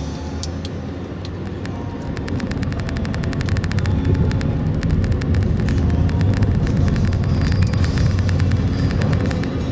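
A car driving slowly off a ferry down its vehicle ramp, heard from inside the cabin: a steady low engine and road rumble, joined after about two seconds by a fast run of clicks and rattles that grows a little louder.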